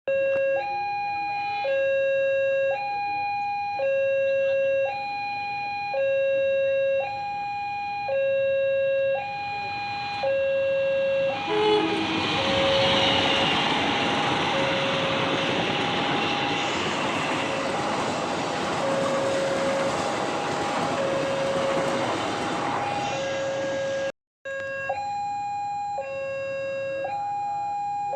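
Railway level-crossing warning alarm sounding two alternating tones, a high and a low, changing about once a second. About twelve seconds in, a passing train's rumble and rail noise rise over the alarm for roughly twelve seconds. The alarm sound breaks off briefly near the end, then goes on.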